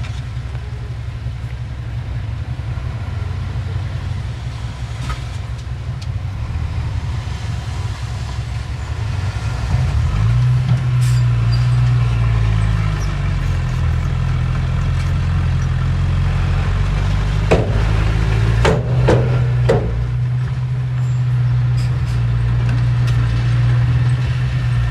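Heavy construction machine's diesel engine running with a low steady drone, then revving up and growing louder about ten seconds in. A few sharp metallic clanks come about two-thirds of the way through.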